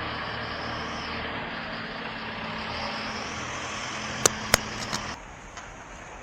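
Motor vehicle engine running close by with a steady low hum, amid street noise. Two sharp clicks come about four seconds in, and the engine sound stops abruptly about a second later.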